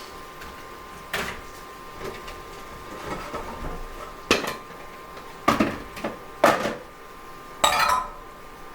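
Kitchen cookware and utensils clattering: about six separate knocks and clanks, the loudest near the end, over a faint steady tone.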